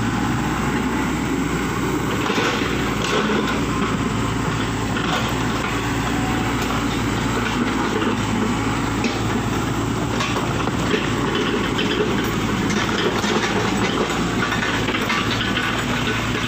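Heavy road-work machinery running steadily, a constant diesel engine drone with rattling and clatter over it.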